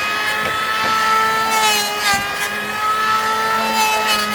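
Electric power drill running at a steady high speed, boring into wood, its pitch dipping slightly about two seconds in.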